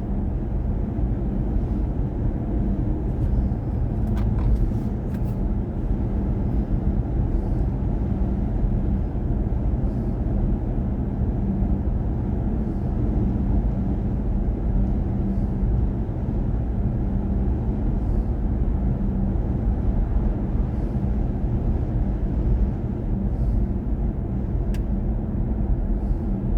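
Steady road and tyre noise with a low hum, heard inside the cabin of a BMW i4 M50 electric car while it is driven.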